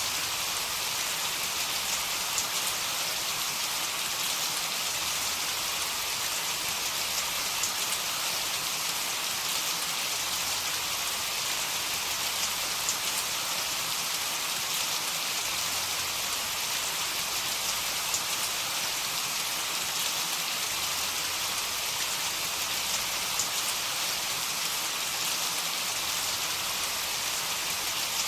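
Steady heavy rain: a dense, even hiss of falling rain with scattered sharper drop ticks.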